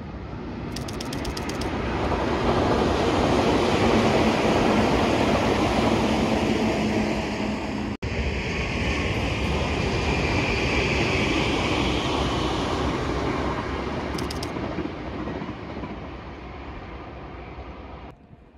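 A train running past on its rails, loud, with wheel and rail noise swelling in over the first few seconds. About eight seconds in it breaks off for an instant and carries on with a brighter hiss, then fades and drops away sharply near the end.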